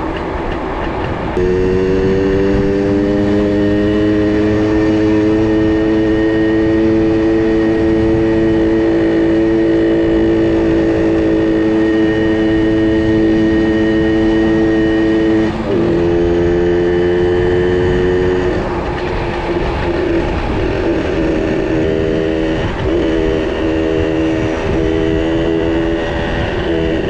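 Two-stroke minibike engine running at steady high revs while riding. The engine note holds one pitch for over ten seconds, dips briefly about halfway through, then carries on less steadily and quieter toward the end.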